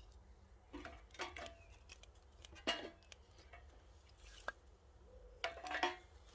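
Sticks of wood being handled and fed into a small wood-burning camp stove: a few scattered light knocks and clicks, the sharpest about two and a half seconds in.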